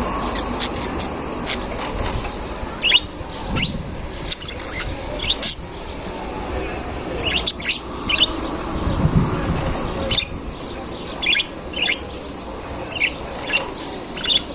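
Caged budgerigars chirping: short high chirps come irregularly, a dozen or so, over a steady low background noise.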